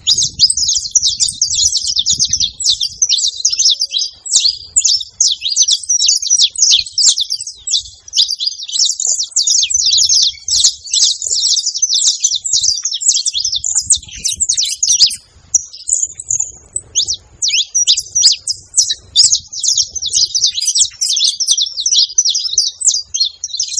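Saffron finch singing: a long, rapid, nearly unbroken run of high chirping notes, with a brief pause about fifteen seconds in.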